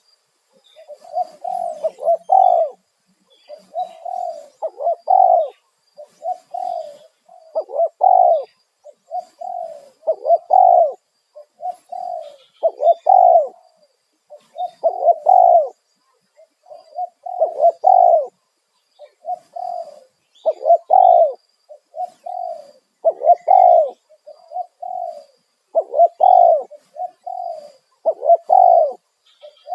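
Spotted dove cooing: a loud run of phrases, each of a few coos, one after another with short gaps.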